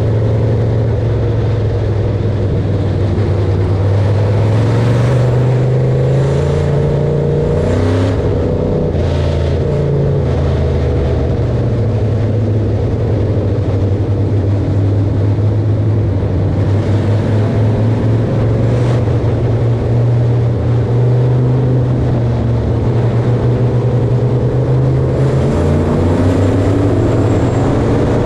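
Engine of harvest machinery running steadily under load, its low hum shifting in pitch a few times, with a few rattling knocks about eight to ten seconds in.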